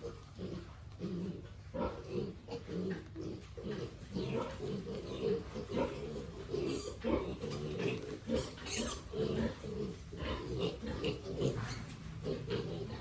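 Pigs grunting: many short grunts in quick, irregular succession.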